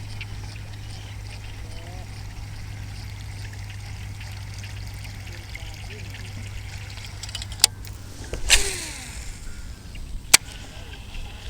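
Water trickling and splashing, with a few sharp clicks; the loudest click, about two-thirds of the way in, is followed by a short burst of splashing.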